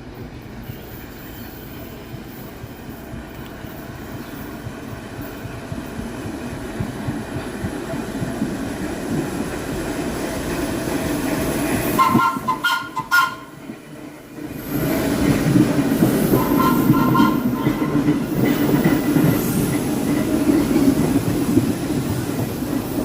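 Vintage New York City subway train running on the rails, its rumble growing steadily louder over the first dozen seconds. Twice there is a brief pulsing high-pitched tone over the rumble, and there is a short, quieter dip about halfway through.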